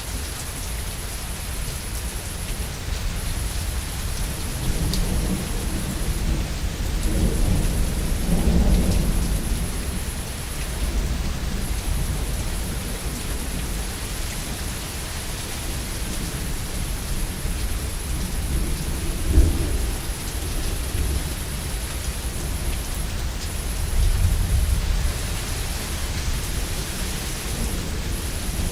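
Steady heavy rain with rolling thunder. A long low rumble swells about a third of the way in, a short sharp thunder clap comes a little past halfway, and another rumble rolls near the end.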